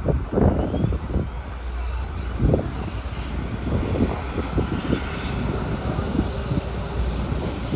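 SH-60K helicopter's turboshaft engines spooling up: a thin whine that climbs steadily in pitch, over irregular low rumbling.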